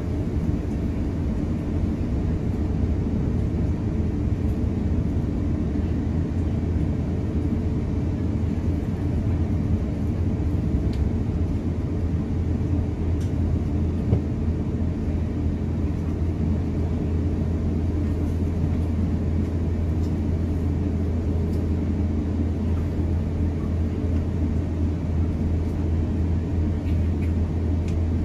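Steady low rumble inside the cabin of an Airbus A350-900 as it moves under its Rolls-Royce Trent XWB engines, with a few faint clicks.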